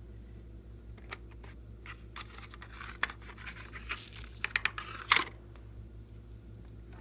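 Glossy slime being worked by hand, giving off scattered sharp sticky clicks and small pops that come thick and fast for about a second near the middle, then die away.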